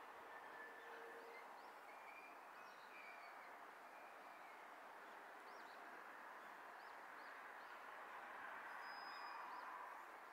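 Faint, steady running noise of a JR East E231 series electric commuter train passing at a distance, growing a little louder near the end. A few short, high bird chirps sound over it.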